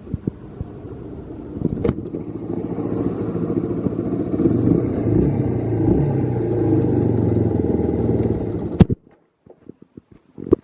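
Yamaha Serow 225's air-cooled single-cylinder four-stroke engine, a swapped-in replacement, running cleanly with no abnormal noise. Its speed picks up over the first few seconds and is held steady, then it cuts off suddenly about nine seconds in, followed by a few faint clicks.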